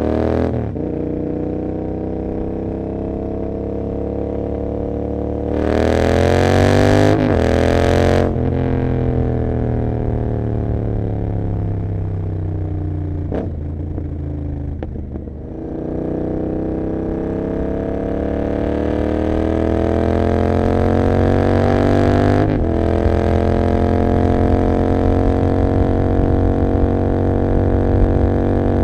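Royal Enfield Continental GT 650's 648 cc parallel-twin engine through an Emgo cafe muffler with no dB killer, heard from the rider's seat. It revs up under acceleration, with the pitch dropping at upshifts about a second in, near 7 and 8 seconds, and past 22 seconds. In the middle stretch the engine note falls as the bike slows, then it pulls up again and cruises.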